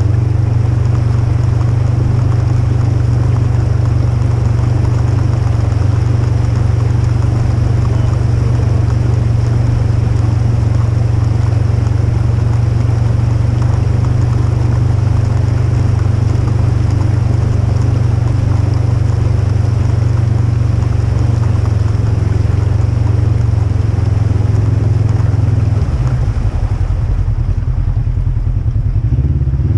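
Polaris RZR XP 1000 side-by-side's twin-cylinder engine running steadily under way, a loud, even low drone. About 26 seconds in, the engine note changes and the higher sounds thin out.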